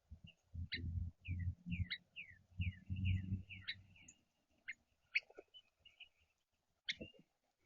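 Small songbirds giving many short, quick chirps that sweep downward. In the first half they are mixed with low, dull bumps and rumbles, which are the loudest sound, and a few sharp clicks come later.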